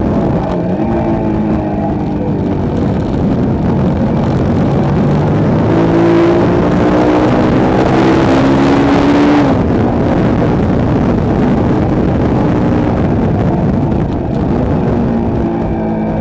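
Motorcycle engine running hard on a race track, its pitch climbing for a few seconds from about six seconds in and then dropping abruptly about halfway through, over a steady rush of noise.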